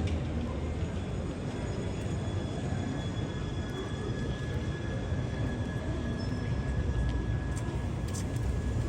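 Steady low rumble of background noise, with a few faint, thin, steady tones high above it.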